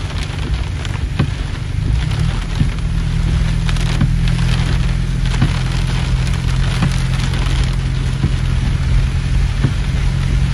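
Heavy rain pelting a vehicle's windshield and roof, heard from inside: a steady wash of rain noise scattered with the ticks of single drops, over a deep low rumble.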